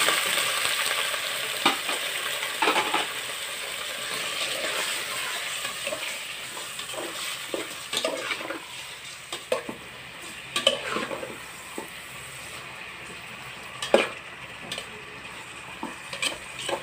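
Raw chicken pieces landing in hot oil and sautéed aromatics in a metal pot: a sizzle that is loudest at the start and dies down over several seconds. A metal spoon stirs and scrapes the chicken, knocking against the pot now and then.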